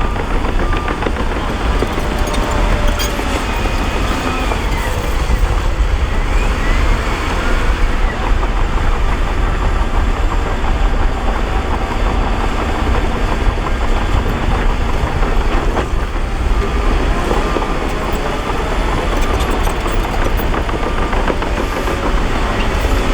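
Heavy diesel earthmoving machinery running steadily, with a deep engine rumble.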